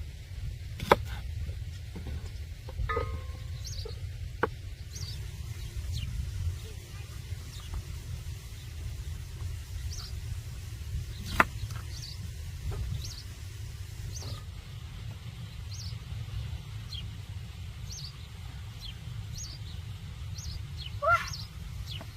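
Small birds chirping now and then over a steady low rumble, with a few sharp knocks, the loudest about a second in and about eleven seconds in.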